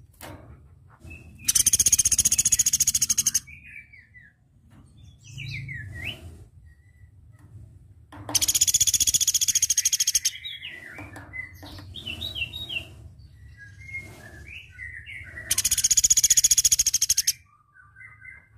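Sunda pygmy woodpecker (platuk beras) calling: three loud, high, rapid trilling rattles of about two seconds each, with softer short chirps in between.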